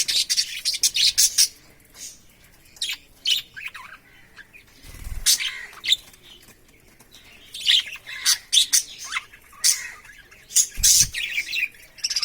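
Pet budgerigars chirping and chattering in quick high bursts, busiest at the start and again in the last few seconds, with two brief low bumps about five and eleven seconds in.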